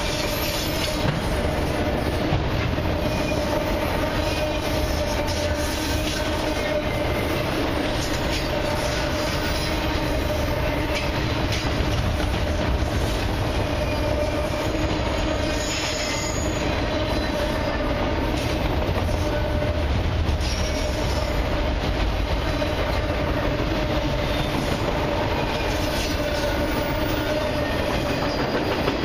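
Autorack freight cars rolling past at speed: a steady rumble of steel wheels on rail with a low droning hum and a constant clickety-clack of wheels over rail joints. Brief high wheel squeals come about halfway through and again near the end.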